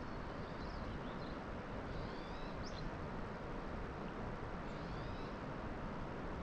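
Birds chirping outdoors, short gliding calls every second or two, over a steady background hiss.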